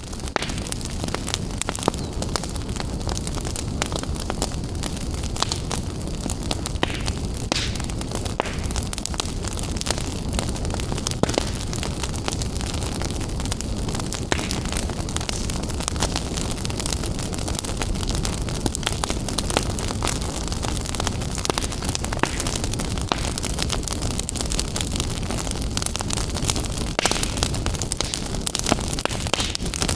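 Wood fire burning in a fireplace: a steady hiss with frequent crackles and pops.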